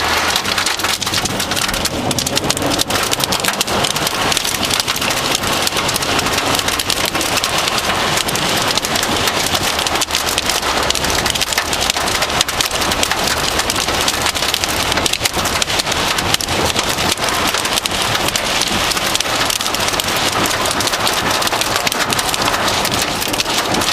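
Loud, heavy thunderstorm downpour: wind-driven rain pelting down as a dense, unbroken patter of drops.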